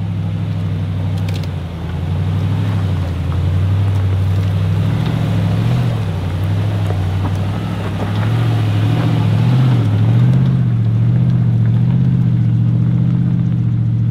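Nissan Patrol's V8 engine running steadily at low revs as the four-wheel drive crawls up a rocky track, heard close by from outside the vehicle. The revs waver a little in the second half.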